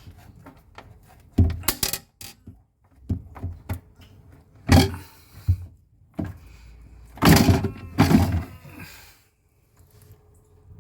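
A string of sharp plastic clicks and knocks, the loudest about a third and three quarters of the way through, as a wiring connector and panel parts inside a refrigerator are handled.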